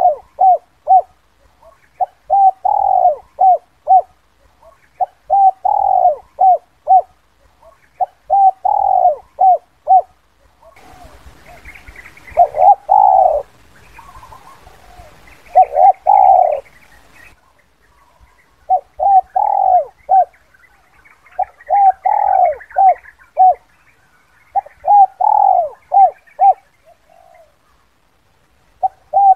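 Spotted dove cooing in its 'kuk 2' call: repeated phrases about every three seconds, each a few short coos and one longer drawn coo. Higher chirping and a light hiss come in about a third of the way through and fade out after several seconds.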